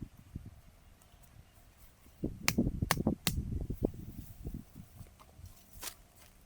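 A cluster of sharp clicks and knocks over low thuds, from about two seconds in to four and a half, with one more click near the end.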